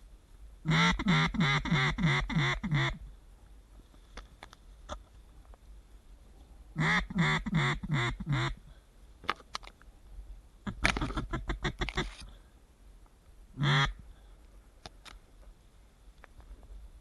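Loud duck quacking in quick runs: a run of about eight quacks near the start, another of about seven midway, a faster run after that, then one last single quack.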